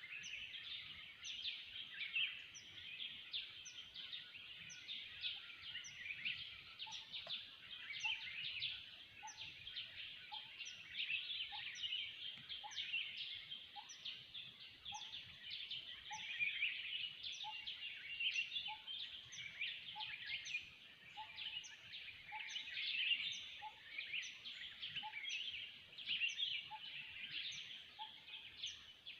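Chorus of many forest birds calling at once: a dense mix of chirps and whistles, with a short high note repeating about once a second throughout and a lower short note joining in about a quarter of the way in, repeating about once a second.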